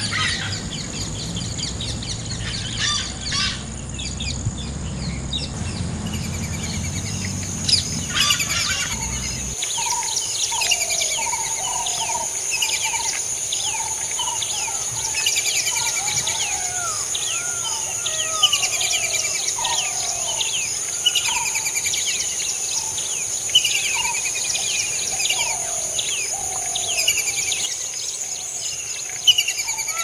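Several wild birds calling together: many quick falling chirps repeating throughout, mixed with lower, rounder whistled notes, over a steady high-pitched whine. A low rumble underneath stops abruptly about ten seconds in.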